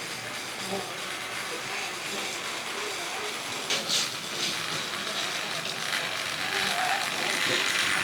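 Plarail battery-powered toy train running along plastic track: its small motor and gears whir and the wheels rattle over the track, growing louder toward the end, with a couple of sharp clicks about four seconds in.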